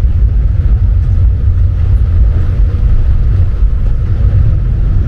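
Alishan Forest Railway train's diesel locomotive running as the train pulls out of a switchback, a loud, steady low rumble.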